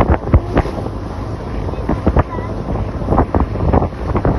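Speedboat under way across the water, with wind buffeting the microphone and frequent short knocks and splashes as the hull meets the waves.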